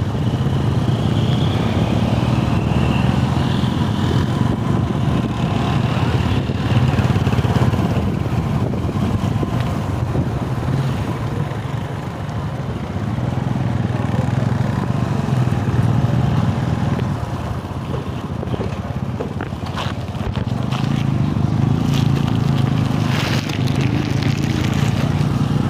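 Motorcycle engine running steadily on the move, a continuous low drone with road noise over it.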